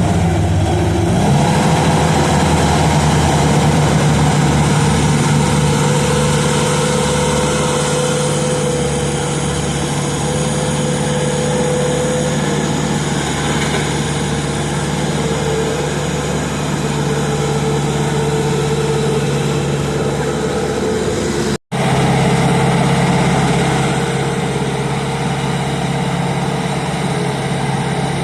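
Engine running steadily, its pitch rising about a second in and then holding.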